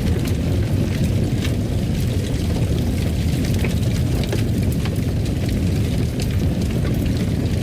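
Fireplace fire crackling: a steady low rumble of flame with frequent small, sharp pops and snaps scattered irregularly throughout.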